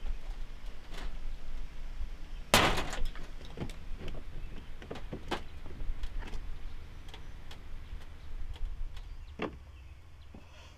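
A series of clicks and knocks over a low steady rumble, with one louder, longer clatter about two and a half seconds in and a sharp knock near the end.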